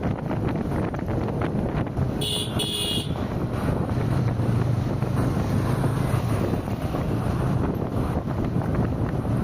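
Steady road and wind noise of a car driving on a highway, with two short vehicle horn beeps in quick succession about two seconds in.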